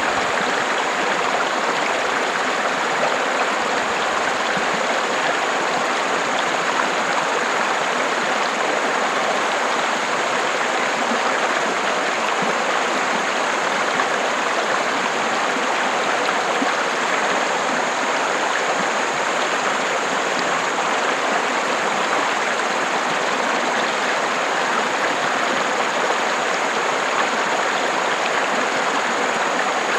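River water flowing steadily over rocks: a constant rushing and babbling.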